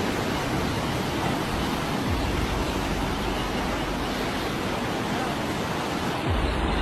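Steady rushing noise of fast-flowing floodwater, with a change in the sound near the end.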